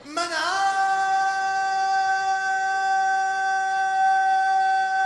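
A male reciter's unaccompanied voice in a Shia latmiya lament, sliding up into one long high note and holding it steadily.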